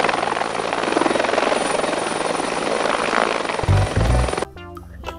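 Helicopter hovering low: the rotor blades chop rapidly over steady turbine noise. A deep rumble swells briefly about four seconds in, and the sound cuts off suddenly at about four and a half seconds.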